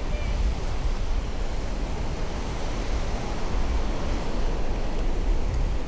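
Steady wash of surf breaking on a beach, with wind rumbling on the microphone.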